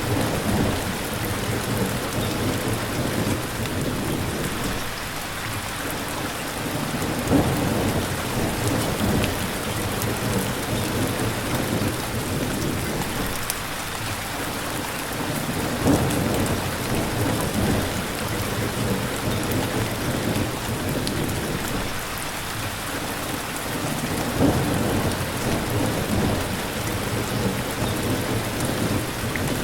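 Steady rain falling, with low thunder rumbling that swells and fades several times.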